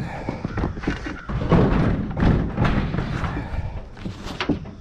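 Repeated thumps and knocks of a metal kitchen stove being loaded onto a truck among stacked scrap.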